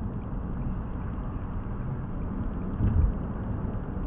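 Steady low rumble of tyre and engine noise inside a moving car's cabin, with a brief low thump about three seconds in.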